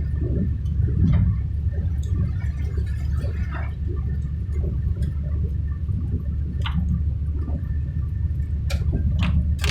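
Steady low rumble of a vehicle driving on a wet, waterlogged road, with tyre and water noise and a few sharp clicks near the end.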